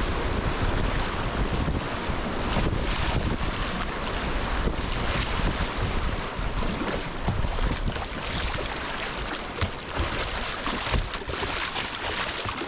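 Rushing whitewater of a class II+ rapid around a kayak, with wind buffeting the microphone.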